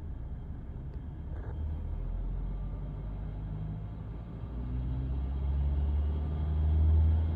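Mercedes-Benz C-Class W205 engine running with a steady low rumble that swells near the end. This is the car the owner found making a high-pitched swishing noise from the engine bay, clearly heard from the driver's seat.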